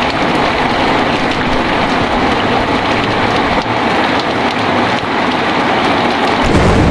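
Heavy rain falling steadily, a dense even hiss. Near the end a low rumble of thunder comes in.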